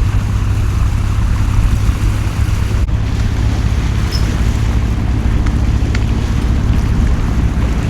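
Steady rush of heavy rain and wind, with a strong low rumble of wind buffeting the microphone.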